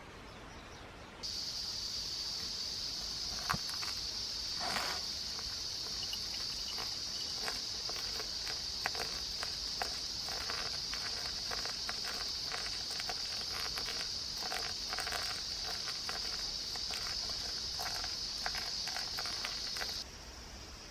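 Insects droning steadily at a high pitch, cutting in about a second in and stopping abruptly near the end, with scattered footsteps and rustling.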